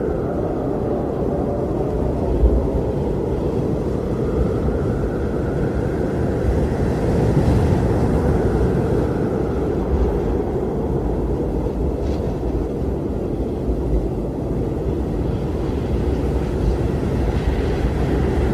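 Blizzard wind: a steady low rush of strong wind with gusts that swell and fade every few seconds, howling.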